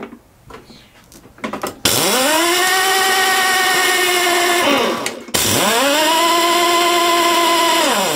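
Electric drill spinning the lawnmower engine over with the plug out, to check for spark. It runs twice, each time winding up to a steady whine for about three seconds and then winding down.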